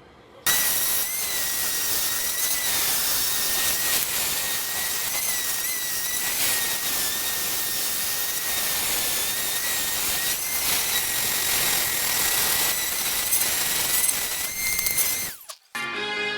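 A handheld electric power tool working wood, running steadily with a high whine. It starts about half a second in and cuts off suddenly about a second before the end.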